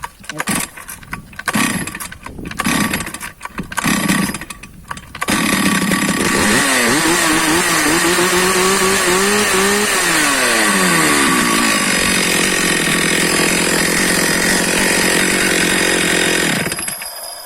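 Stihl MS 460 two-stroke chainsaw being pull-started: a few uneven pulls on the starter cord, then the engine catches about five seconds in. It is revved up and held for a few seconds, drops back to a steady run, and stops near the end. The saw is freshly cleaned and serviced.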